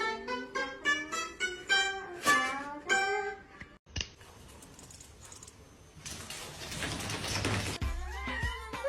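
A quick run of short plucked-string notes, guitar or ukulele-like, playing a melody that stops about three and a half seconds in. A sharp click follows, then a quieter stretch of noise.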